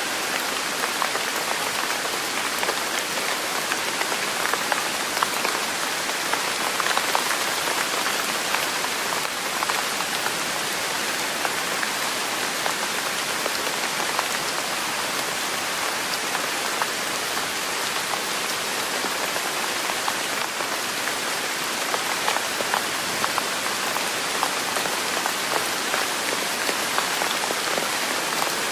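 Steady rain falling on a surface, a dense, even hiss with many small individual drop ticks.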